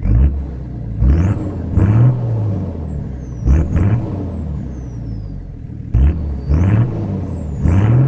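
Nissan GU Patrol's RD28 2.8-litre turbo-diesel straight-six revved in several quick blips. Each rev brings a high turbo whistle that climbs and then slowly winds down.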